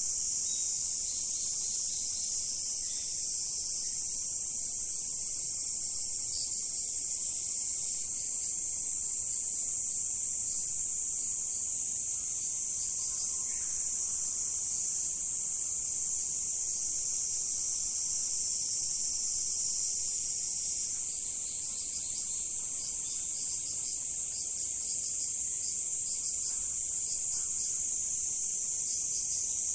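Insects calling in a steady, high-pitched chorus that runs on without a break.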